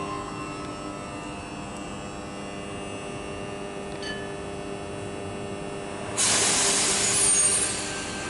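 Steady electrical hum made of several steady tones, typical of electric train equipment at a station. About six seconds in, a loud hiss starts suddenly with faint high squeals in it, then fades away after about a second and a half.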